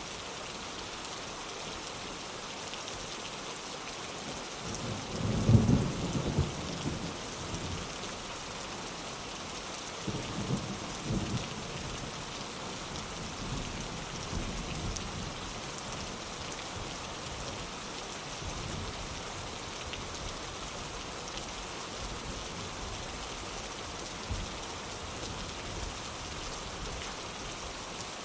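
Steady rain falling, with a loud rumble of thunder about five seconds in and a second, softer rumble around ten seconds, then fainter distant rolls.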